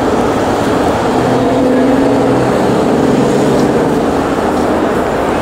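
Steady city traffic noise, with a vehicle engine running and humming at a constant pitch.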